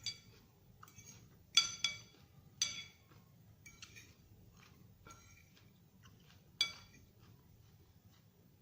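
Cutlery clinking against a dish while eating salad: a handful of sharp, ringing clinks spaced irregularly. The loudest come about a second and a half in and again later on.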